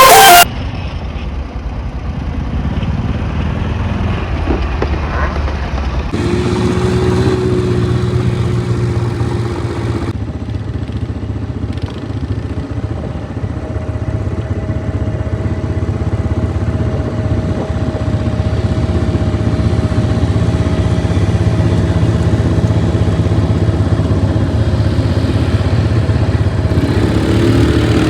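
Quad bike engine running steadily under way, with sudden changes in its sound about six and ten seconds in.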